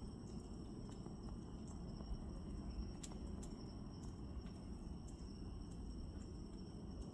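Faint outdoor ambience: a low rumble of wind with a steady high-pitched drone of insects and a few faint ticks.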